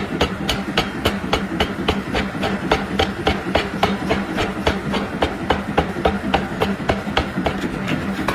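Power hammer striking metal in a fast, even rhythm of about four to five blows a second, over a steady machine hum.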